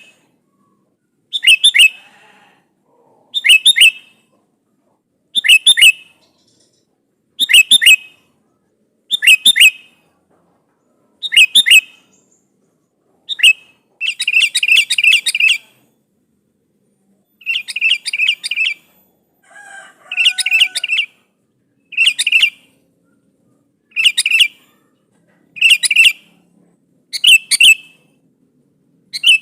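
Sooty-headed bulbul (kutilang) repeating a short burst of quick, bright notes about every two seconds, breaking into two longer rapid runs of notes midway. This is the bulbul's call challenging a rival.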